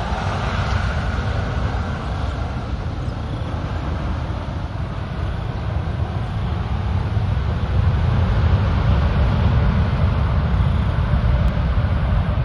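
Low, steady rumble of a jet airliner near the runway, getting louder about eight seconds in.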